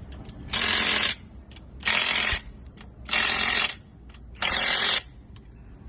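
Hand ratchet wrench being worked on a truck engine's bolts during crankshaft fitting: four rattling strokes, each about half a second long and evenly spaced, about one every 1.3 seconds.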